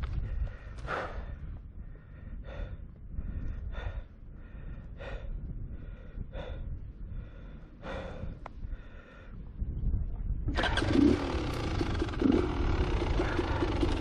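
Heavy, rhythmic breathing of an exhausted rider, one breath about every second and a half. About ten seconds in, a dirt bike engine starts abruptly and keeps running.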